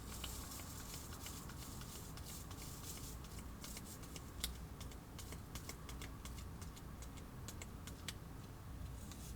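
Scattered light clicks and taps, as of small objects being handled, with a sharper click about four and a half seconds in and another near eight seconds.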